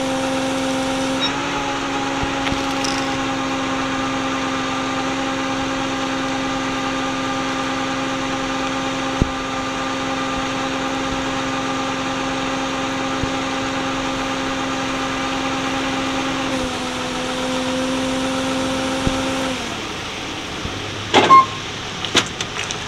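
A motor running with a steady pitched hum that shifts slightly about a second in and again later, then cuts off about 20 seconds in. A few sharp knocks follow near the end.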